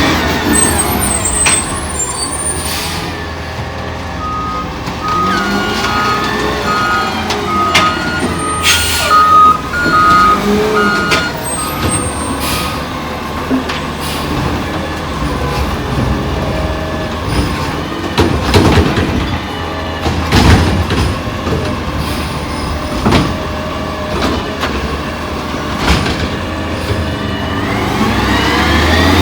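McNeilus ZR rear-loader garbage truck at work: its backup alarm beeps steadily for several seconds while the truck reverses, with sharp air-brake hisses, clanks, and the diesel engine running. Near the end the engine revs up.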